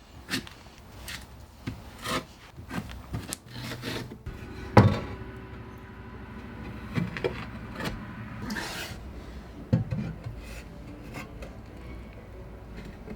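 Tile adhesive being spread and scraped for hearth tiling, irregular rubbing scrapes with scattered taps; the sharpest knocks come about five seconds in and again near ten seconds.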